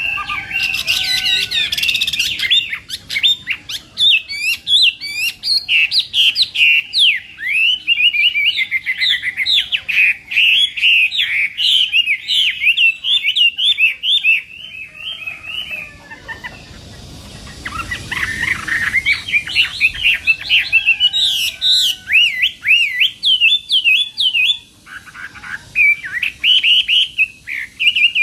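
Chinese hwamei singing a long, fast run of varied, sweeping whistled phrases, breaking off for a few seconds about halfway through, then starting again.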